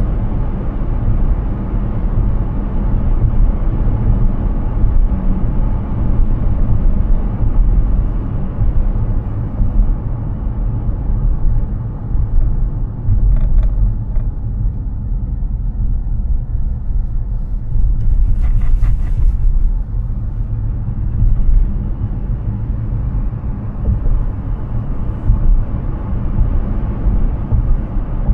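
Steady low road and wind rumble of a Hyundai Ioniq 6 electric car driving on the road, with no engine note. A few faint clicks come about halfway through, and a brief higher rattle about two-thirds of the way in.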